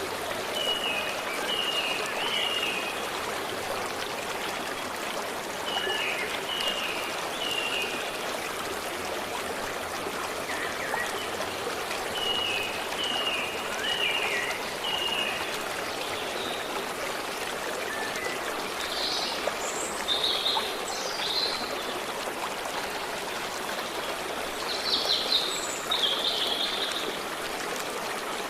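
Stream water running steadily, with birds singing over it: phrases of short repeated chirps in the first half, and a few louder calls in the second half.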